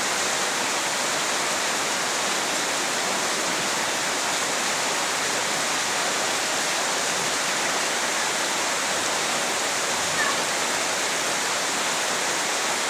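Heavy rain falling steadily: an even, continuous rushing hiss with no let-up.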